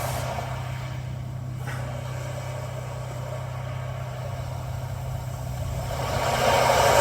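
Ocean-waves nature sound playing through a Hyundai i20N's infotainment speakers: a surging hiss that fades, then builds again into a new wave swell near the end, over a steady low hum.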